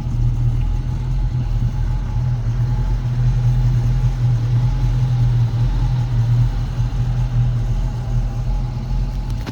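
1964½ Ford Mustang convertible's engine idling steadily.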